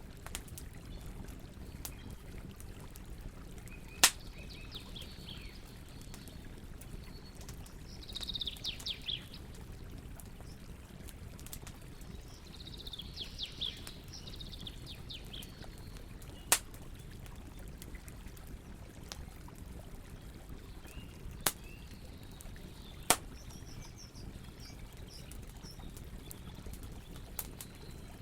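Campfire burning with a low steady rumble and four sharp crackling pops. A bird chirps in short trills several times.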